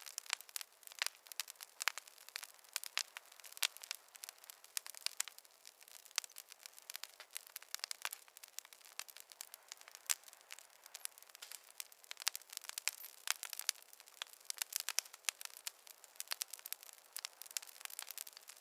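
Wood fire crackling: a steady stream of irregular small pops and snaps over a faint hiss.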